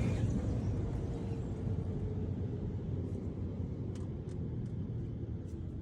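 Automatic car wash machinery rumbling, a steady low noise that slowly fades, with a few faint ticks in the last two seconds.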